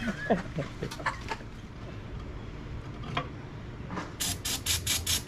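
A few faint clicks and knocks, then about four seconds in a rebuilt engine starts cranking over on its starter, an even chug of roughly four to five strokes a second, without catching.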